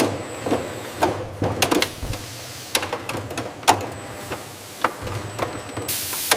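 Automated jar-sealing machinery on a production line clattering, with irregular sharp clicks and clacks over a steady low hum. A short hiss comes near the end.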